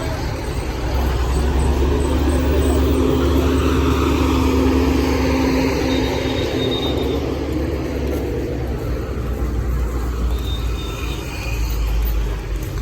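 Motor vehicle engine running close by amid road traffic: a deep rumble with a steady hum swells about a second in and eases off after about seven seconds.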